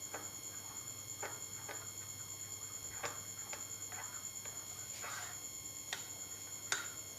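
Spoon clinking and scraping against a small bowl while stirring custard powder into milk, in irregular light taps about a second apart, the sharpest one near the end.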